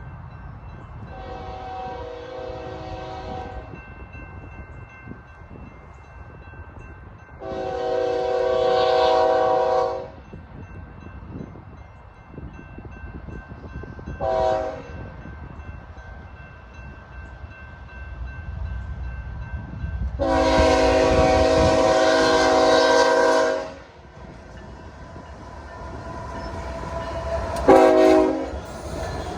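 Locomotive air horn sounding a string of blasts, each a chord of several tones. There are long blasts about a second in, near 8 seconds and near 21 seconds, a short one between them and another short one near the end. The run of long, long, short, long is the grade-crossing signal. Under it the train's rumble and wheel noise grow louder as it nears.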